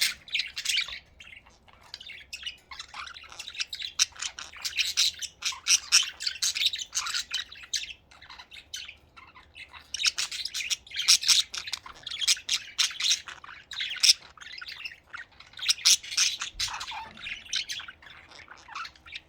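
Pet budgerigars chattering and chirping: rapid, warbling bursts of high chirps with short pauses between them.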